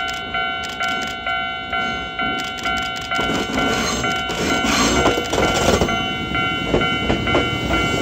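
Japanese level-crossing warning bell ringing steadily about three times a second. From about three seconds in, a Nankai electric train comes through the crossing, its running noise building and its wheels clacking over the rail joints as it passes.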